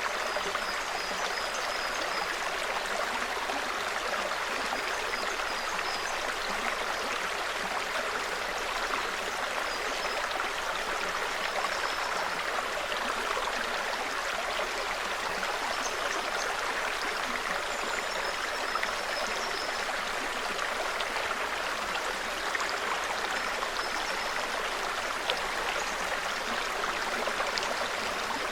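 Small forest stream trickling and burbling steadily over rocks, with faint, short, high bird chirps every few seconds.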